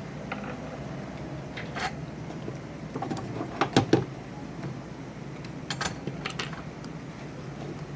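A few light clicks and taps of hand tools and parts being handled at a workbench, the loudest a pair about four seconds in, over a steady low hum.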